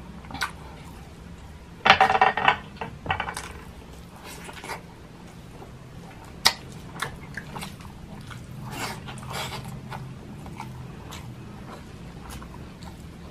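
Close-miked mouth sounds of a person eating garlic fried rice and tocino by hand: wet chewing and lip smacks with scattered clicks. There is a loud burst of mouth noise about two seconds in and a sharp smack about six and a half seconds in.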